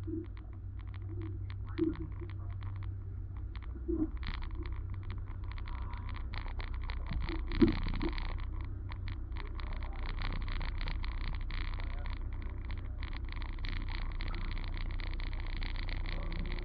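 A car engine running steadily at a low idle, with scattered short clicks throughout and a few brief louder knocks about 2, 4 and 8 seconds in.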